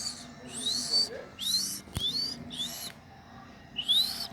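Monkeys giving a string of short, high-pitched whistling calls, each rising in pitch, about five in a row. A single sharp click comes about two seconds in.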